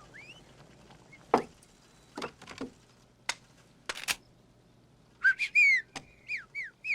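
A person whistling a signal call: a quick run of short notes that slide up and down, in the second half. A few sharp knocks come earlier.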